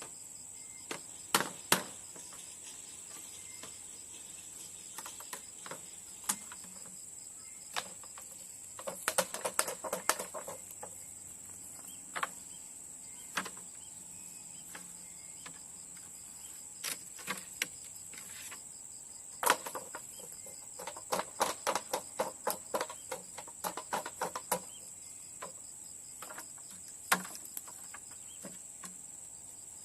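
Scattered sharp taps and knocks, with two runs of quick clicking, from handwork on a homemade bird scarer, over a steady high insect drone.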